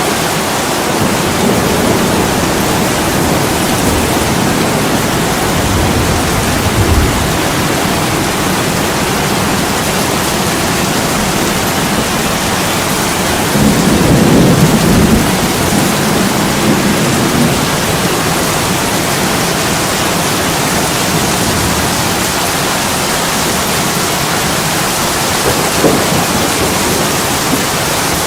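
Heavy rain pouring steadily on a window glass, with low rumbles swelling briefly about 6 seconds in and again, loudest, around 14 seconds in.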